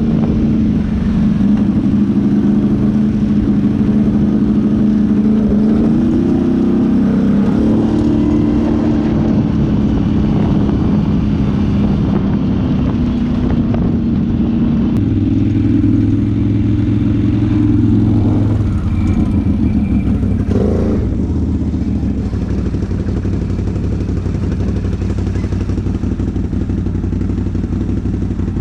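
ATV engine running, its pitch stepping up and down with the throttle, then settling to a lower, steadier note about halfway through and getting a little quieter for the last few seconds.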